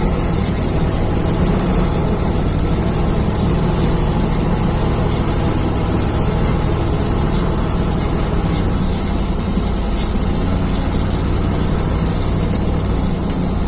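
Heavy diesel engine running steadily at a low idle, a deep even rumble with a constant hiss above it.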